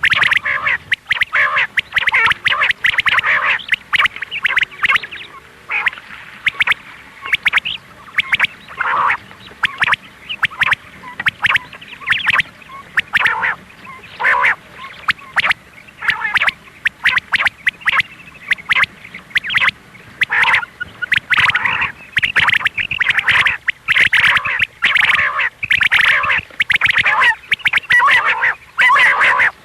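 Quail (batair) calling, a rapid string of short, repeated calls, many of them overlapping, with brief pauses between runs.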